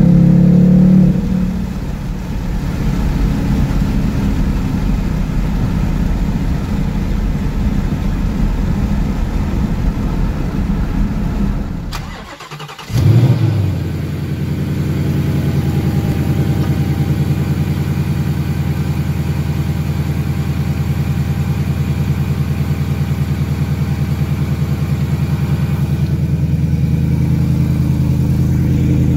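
2019 Ford Mustang Bullitt's 5.0 V8 heard from the cabin at speed in third gear, louder for the first second and then steady. About halfway through, after a short break, the engine is started with a loud flare and settles into a steady idle.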